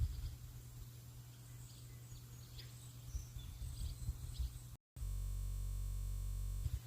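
Faint, scattered bird chirps over a low rumble, like wind on the microphone. About five seconds in the sound cuts out for a moment, then a steady low hum runs for about two seconds before the outdoor sound returns.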